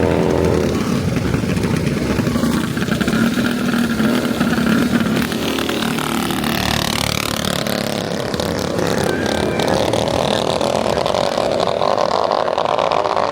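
Mini bike engines running and revving, with the pitch climbing and falling as bikes accelerate; a clear rising rev about halfway through.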